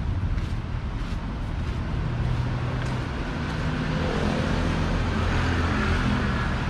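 Road traffic: a motor vehicle passes close by, growing louder over the second half, over a steady low rumble of traffic and wind on the microphone.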